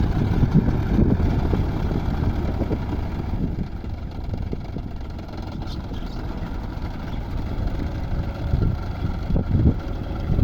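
Tractor engine running, its rumble louder in the first couple of seconds, easing off in the middle, and rising again near the end.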